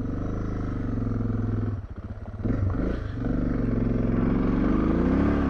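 Adventure motorcycle engine running under way: the throttle eases off briefly about two seconds in, then the engine pulls again with its pitch rising and falling.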